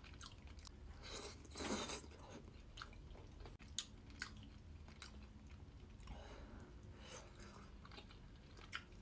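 Close-up chewing of ramen noodles and chicken, with a few sharp clicks of wooden chopsticks and spoon against the bowl while the noodles are stirred.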